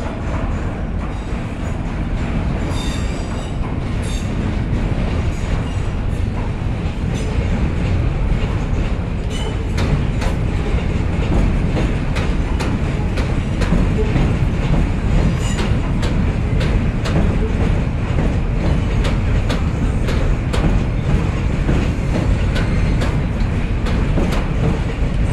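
Electric passenger train rumbling across a steel lattice-truss railway bridge, its wheels clicking over the rail joints, growing louder over the first several seconds. A brief high wheel squeal comes about three seconds in.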